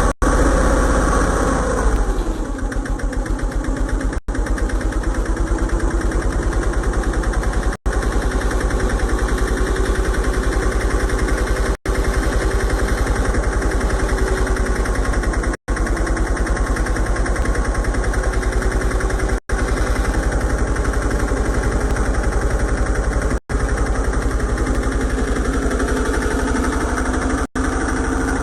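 A Yamaha Libero motorcycle's small single-cylinder four-stroke engine settles from a light rev down to a steady idle about two seconds in, then idles evenly. The sound cuts out briefly about every four seconds.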